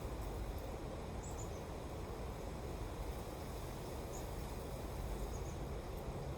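Steady wind blowing, heavy in the low end, with a few faint, brief high chirps.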